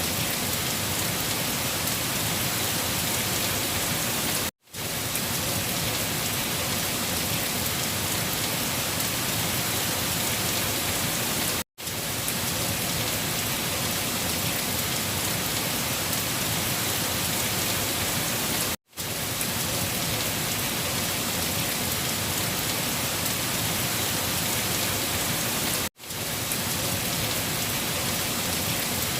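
Steady, dense rain falling. The sound cuts out abruptly four times, about every seven seconds, and fades straight back in each time, as at the seam of a looped recording.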